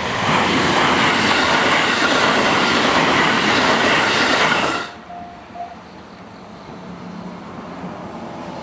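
A JR West electric commuter train passing close by at speed: loud wheel-on-rail and running noise that cuts off sharply about five seconds in as the last car clears the crossing.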